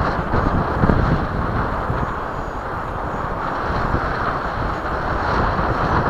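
Gusty wind buffeting the microphone, with the faint whine of an electric ducted-fan model F-15 jet flying, swelling about five seconds in.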